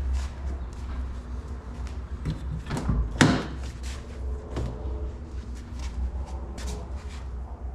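Several short knocks and clicks, the loudest a sharp knock about three seconds in, over a steady low hum.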